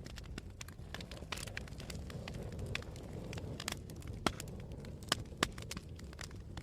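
Wood campfire burning with frequent sharp crackles and pops over a steady low rumble of flames and wind, the loudest pops coming in the second half.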